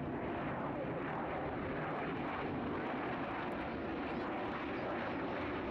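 Gulfstream G650ER business jet's twin Rolls-Royce BR725 turbofans, heard as a steady, even jet rumble with a faint steady tone, as the jet rolls out after touchdown.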